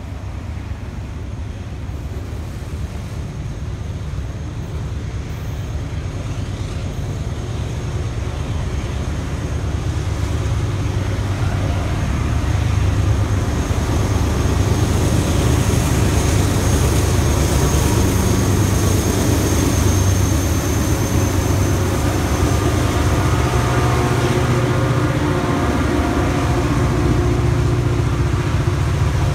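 Freight train of autorack cars passing close by: a steady rumble and clatter of wheels on rail that grows louder over the first dozen seconds and then holds. A thin high wheel squeal runs through the middle, and the drone of a BNSF diesel locomotive comes in near the end.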